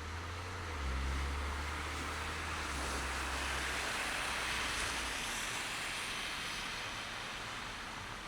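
Car driving through a snow-covered city street: a low engine and road rumble that fades after about four seconds, and a tyre-and-traffic hiss that swells in the middle and then eases off.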